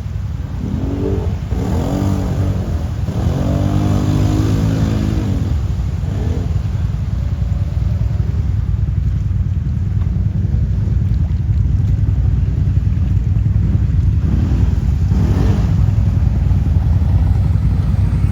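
Quad bike (ATV) engine running under way, its revs rising and falling.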